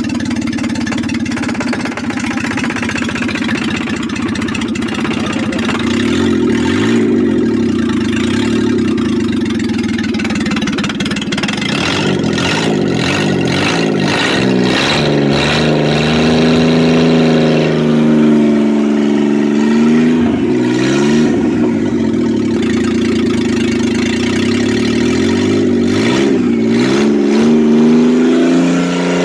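Engine, presented as a Lamborghini's, running steadily at first and then revved several times from a little before the halfway point, its pitch rising and falling with each rev.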